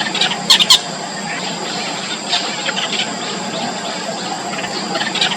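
Yellow bittern nestlings begging in the nest with short, high squeaky calls. There are two loud squeaks close together about half a second in and fainter squeaks throughout, over a steady high background drone.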